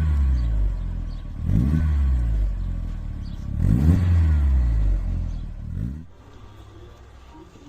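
Volkswagen Beetle's exhaust, freshly fitted with a sport muffler and twin tip, as the engine is blipped three times, each rev rising and falling back. About six seconds in it drops to a much quieter low hum.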